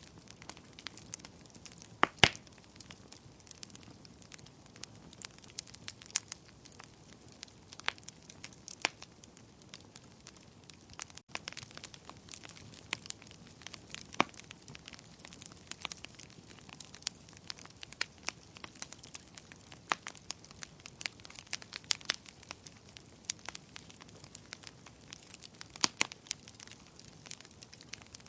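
Fire crackling: a low steady hiss with many irregular sharp pops and snaps, the loudest about two seconds in. There is a split-second gap about eleven seconds in.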